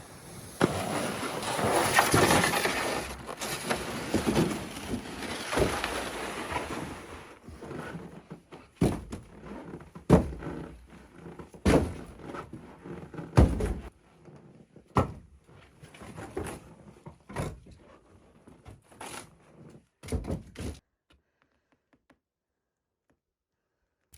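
Rustling and handling noise, then a run of irregular knocks and thunks, each a separate hard hit; the sound cuts to silence near the end.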